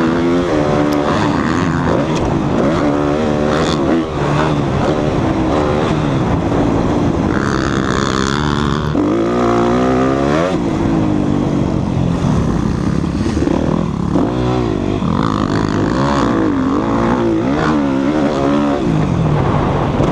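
Motocross dirt bike engines revving hard and backing off on a track, the pitch climbing and dropping every second or two as the throttle is worked.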